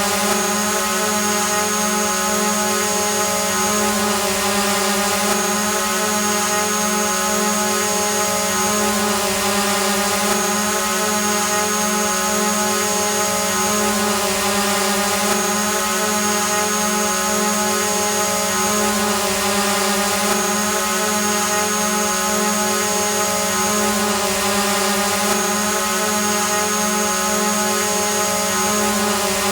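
Multirotor drone hovering: a steady propeller whine and buzz with an even, unchanging pitch. A faint high tone above it cuts out briefly every few seconds.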